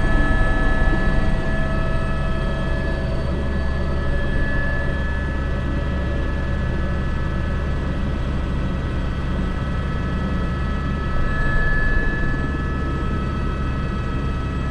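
Airbus H125 helicopter in flight, heard from the cockpit: a steady turbine whine over the constant low rumble of the rotor.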